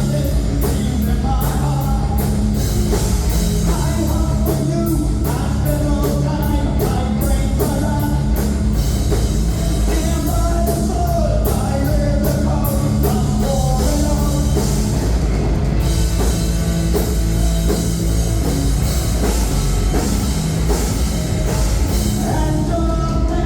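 A rock band playing loud and live: pounding drums, bass and guitars, with a singer's voice over them.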